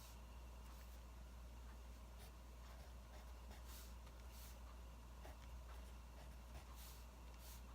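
Wood fire crackling quietly, with scattered small pops and a few short hissing bursts over a steady low hum.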